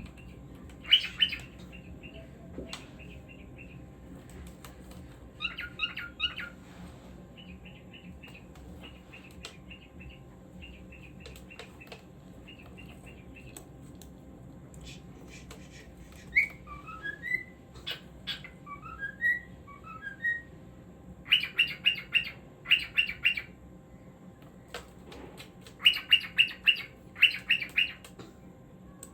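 A cockatiel chirping in bursts of short, high, rapid notes, with a run of quick sliding whistle notes about halfway through.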